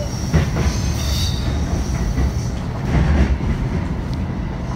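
JR West 227 series 1000 electric train rolling slowly through the points into a station, heard from the driver's cab: a steady low rumble with sharp clicks of the wheels over rail joints, and a brief high wheel squeal about a second in.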